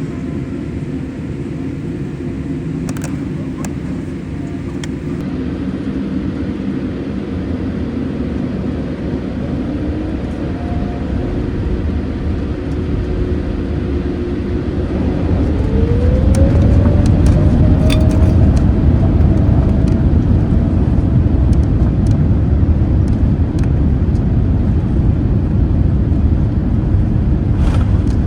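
Boeing 787-8 jet engines heard from inside the cabin. About fifteen seconds in, the engine tone rises in pitch as they spool up, and a low rumble grows louder and stays up: thrust being applied at the start of the takeoff roll.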